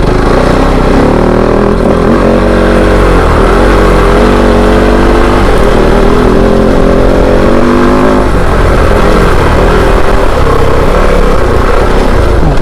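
Kove 450 Rally motorcycle's single-cylinder engine running under changing throttle, its pitch rising and falling several times in the first half before settling to a steadier note.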